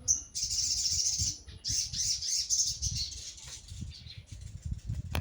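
Sogon bird song used as a lure call: two short high notes, then a fast, dense run of high chirping chatter that fades out after about three seconds, over a low rumble.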